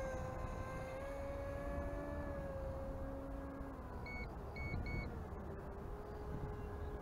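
A Q-board RC model plane's motor whines steadily in flight, its pitch drifting slowly up and down and dropping a little about four seconds in. Three short, high beeps sound between about four and five seconds in, over a constant low rumble of wind on the microphone.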